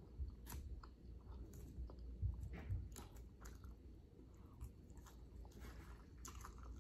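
A person chewing food close to the microphone, eating Caesar salad and steak, with scattered short clicks of mouth and fork sounds through the chewing.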